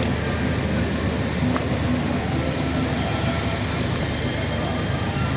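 Steady low rumble of vehicles mixed with indistinct background voices.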